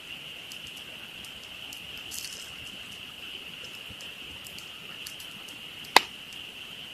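Campfire wood crackling with scattered small snaps and one sharp, loud pop about six seconds in, over a steady, high-pitched chorus of frogs.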